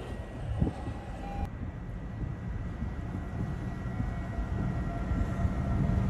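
A low, steady rumble, train-like, with a fainter hiss above it that changes abruptly about a second and a half in.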